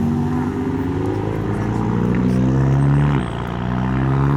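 A car engine accelerating, its pitch climbing steadily, falling sharply about three seconds in as it changes gear, then starting to climb again near the end.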